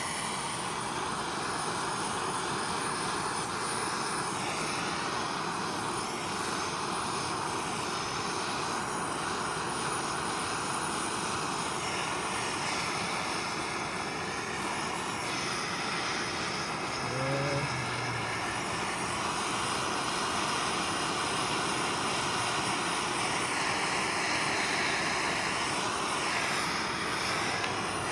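Gas torch flame running with a steady roar, burning caked oil and grease off a small engine's spark arrestor screen.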